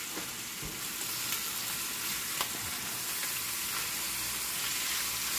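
Chicken pieces sizzling steadily as they fry in a cast-iron skillet, with a couple of light clicks from metal tongs against the pan as the pieces are loosened from the bottom.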